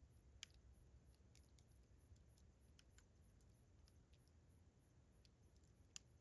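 Campfire crackling softly, with scattered small clicks and two sharper pops, one about half a second in and one near the end. Crickets chirp steadily behind it in a very high, even pulse about three times a second.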